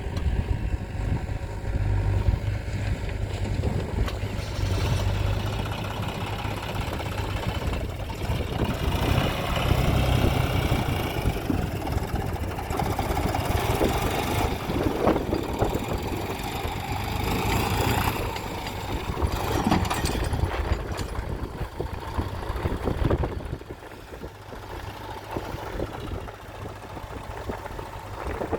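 John Deere 4x4 tractor's diesel engine running, quieter for the last few seconds.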